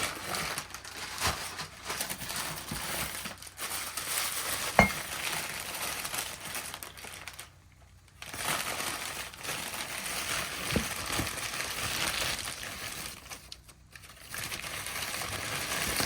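Paper or packing material crinkling and rustling as items are handled and unwrapped, with a couple of light knocks.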